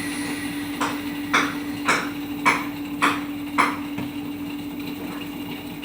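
LG front-load washing machine running with a steady hum, with a sharp knock repeating about twice a second that dies away after about four seconds. This is the noise the customer reports while the drum is being driven.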